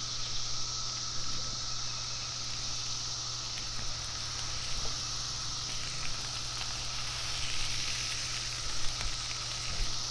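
Raw chicken wings sizzling in a pool of hot oil as they are laid one by one onto a Blackstone flat-top griddle, with a few small pops. Cicadas drone steadily.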